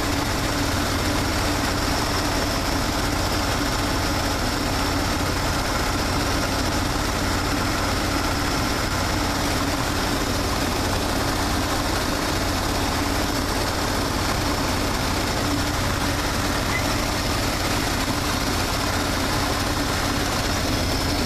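Chevrolet 350 small-block V8 idling steadily while warming up, its choke already off.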